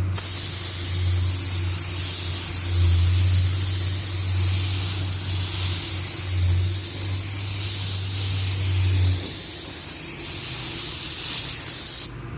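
Compressed-air paint spray gun hissing steadily as clearcoat is sprayed onto a car door, with a low hum underneath that stops about three-quarters of the way through. The hiss cuts off just before the end.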